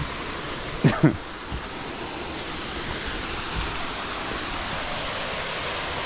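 Steady rushing noise of a waterfall, swelling slightly. About a second in, a short vocal exclamation from a person, louder than the water.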